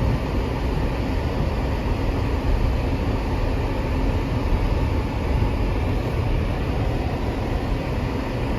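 Steady road and engine noise of a moving car, heard from inside the cabin: a constant low rumble with no breaks.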